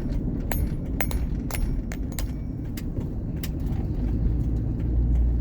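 Vehicle driving along, a steady low rumble with light rattles and clicks scattered through it.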